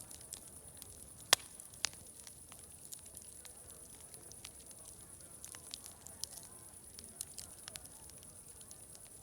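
Crackling wood fire: scattered sharp pops and snaps, the loudest about a second in, over a steady high-pitched hiss. Faint distant chatter lies beneath.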